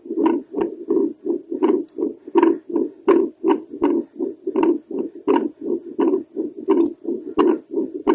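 Heartbeat picked up by a home doppler probe held over the tricuspid valve: a fast, steady run of throbbing whooshes, each with a sharp click from the valve.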